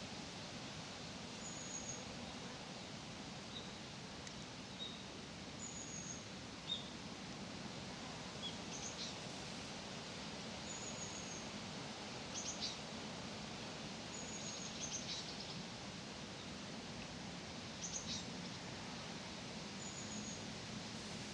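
Small birds calling in a park: short, high, slightly falling chirps every few seconds, with a few quick rattling note groups, over a steady outdoor background hiss and hum.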